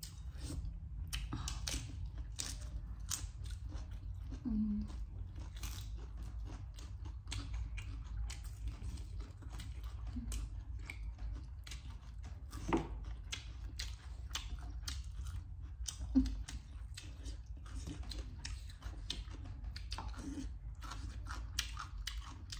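Close-up mouth sounds of eating: chewing with many short, crisp crunches of crispy fried chicken and raw cabbage leaves. A steady low hum runs underneath.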